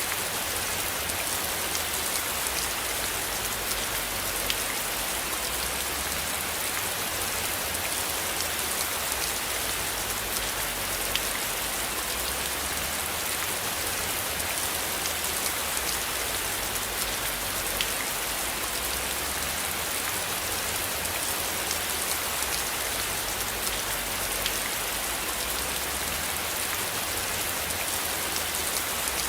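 Steady rain falling on a surface, with scattered individual drop ticks over a continuous hiss, and a low rumble underneath.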